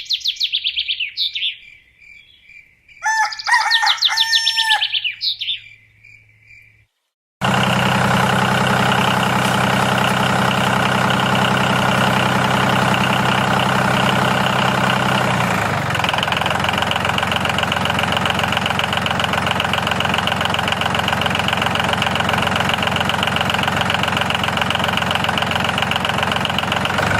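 Birds chirping and calling for the first few seconds, then a loud, steady engine-like running sound, as of a small engine idling, starting suddenly about seven seconds in and shifting to a lower tone about halfway through.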